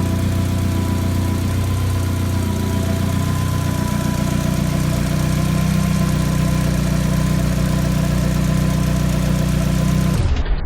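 Nissan SR20DET turbocharged inline-four idling steadily while its cooling system is burped of trapped air. The engine note cuts off abruptly near the end.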